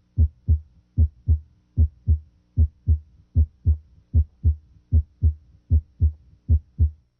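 Normal heart sounds heard through a stethoscope at the mitral area: paired lub-dub beats, S1 from closure of the mitral valve followed by S2, at about 77 beats a minute. At this point S1 is usually louder than S2. The beats stop just before the end.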